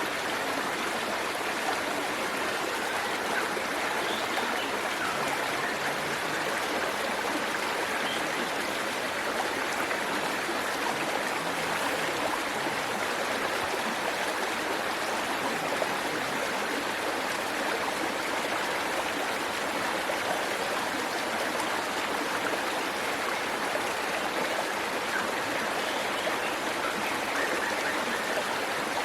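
Waterfall and stream water rushing steadily, an even constant splashing with no change in level.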